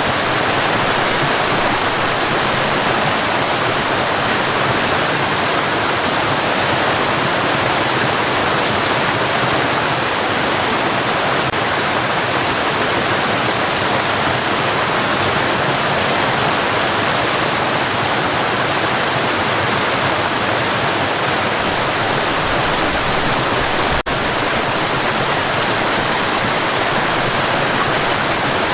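Steady white noise played as a baby sleep aid: an even, unchanging hiss with one brief dip about 24 seconds in.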